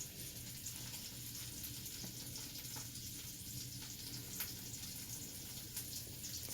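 Faint sizzle of olive oil and butter frying in a pan, with scattered small crackles and pops.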